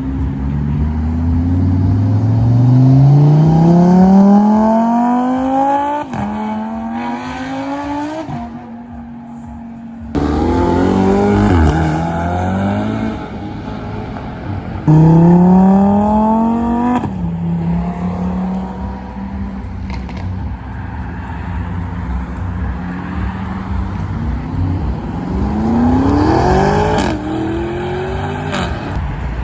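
High-performance car engines accelerating hard, one after another, each revving up with a sharp drop in pitch at every gear change.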